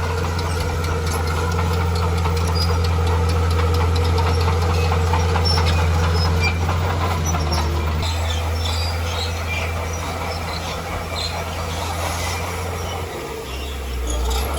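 Bulldozer's diesel engine running steadily under load, with small metallic clicks and squeaks from the tracks; the engine note drops lower near the end.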